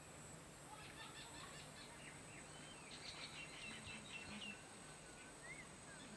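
Faint birdsong: a quick run of chirps about a second in and another around three seconds, then a few short whistles near the end, over a steady high-pitched tone.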